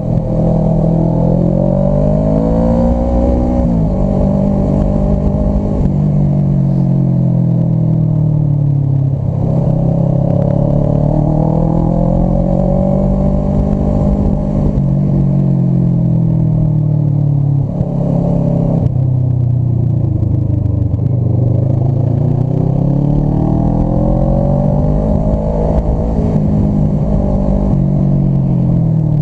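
Motorcycle engine running under way, its pitch rising and falling with the throttle, with sudden drops about four seconds in and again near eighteen seconds, over a low rumble.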